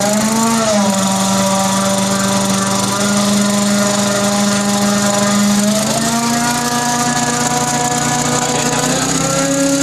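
Grain vacuum conveyor running: a small engine's steady drone over a rushing hiss of air, its pitch dipping slightly about a second in and rising again about six seconds in.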